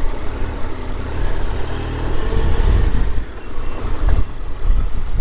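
Motor vehicle engine running at low speed: a loud, steady low rumble.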